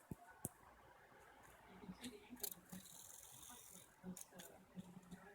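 Faint scattered clicks and light taps as a cat paws at a cicada on the floor, with a brief faint buzz about three seconds in.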